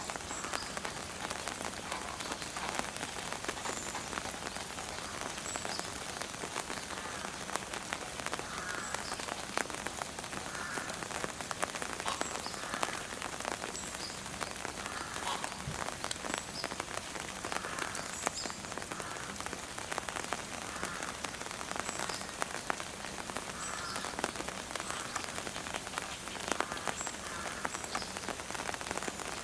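Steady rain falling, with the ticks of many individual drops striking close by.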